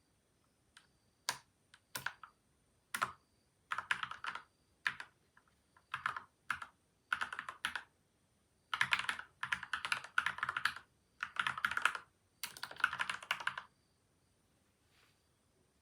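Typing on a PCL87 mechanical keyboard with Gateron Milky White and Outemu Yellow linear switches; the switches and stabilisers are lubed, and the keyboard is modded with tape and foam layers. Keystrokes come in short scattered runs at first, then longer, quicker runs in the second half, and the typing stops a couple of seconds before the end.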